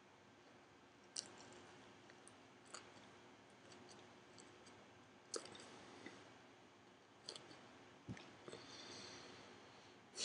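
Faint chewing of a mouthful of raw spinach leaves: scattered soft clicks and crackles at irregular intervals.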